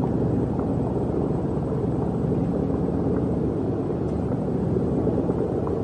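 Steady low machinery rumble with a faint hum, with no change throughout.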